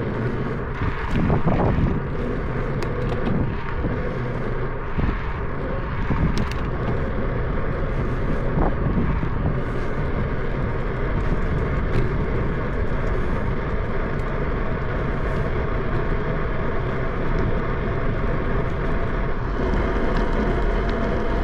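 Steady rumble of wind on the microphone and tyre noise from a bicycle ride.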